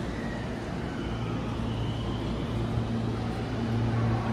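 JR West 207 series electric multiple-unit train starting to pull out of the station: a steady low hum with a faint rising whine, growing louder near the end as the train gets under way.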